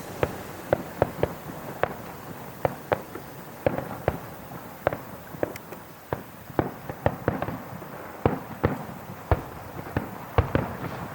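Fireworks going off in a display: an irregular run of sharp bangs and pops, about two a second.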